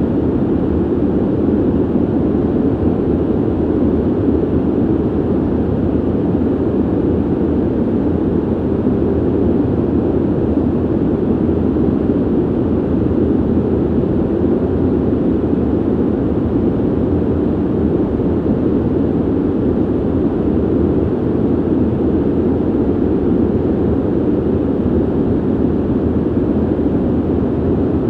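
Ventilation system blowing air: an unchanging, deep rush of noise with no hum tone, rhythm or change in level.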